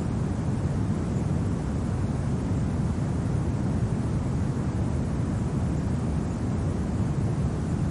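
Steady, low rumbling wind of a winter snowstorm ambience, even throughout with no distinct gusts, crackles or other events.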